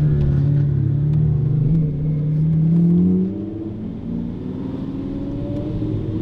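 High-performance car engine pulling hard, its note climbing slowly, then lifting off about three seconds in and carrying on quieter at a lower, steady pitch.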